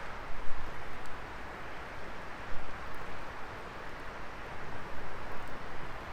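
Wood fire burning in a fire pit: a steady hissing rush of flames with a few faint, scattered crackles.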